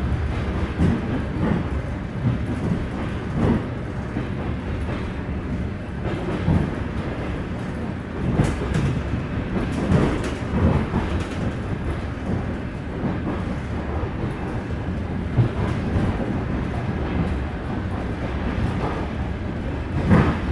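Interior running noise of an ED4M electric multiple unit in motion: a steady low rumble from the wheels and running gear on the rails, with irregular knocks and clatter, growing louder for a few seconds about halfway through.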